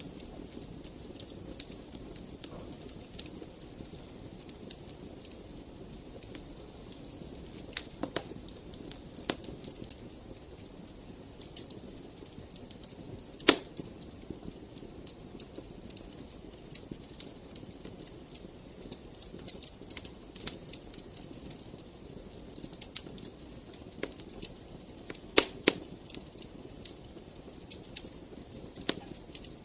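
Fire burning in a fireplace, crackling with irregular sharp pops over a low steady hiss. The loudest pop comes about halfway through, with a few more close together near the end.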